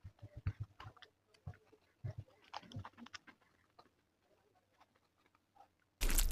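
Close-miked eating sounds: chewing with small wet mouth clicks and smacks in irregular clusters for about three seconds, then almost nothing. Near the end a much louder, dense stretch starts abruptly.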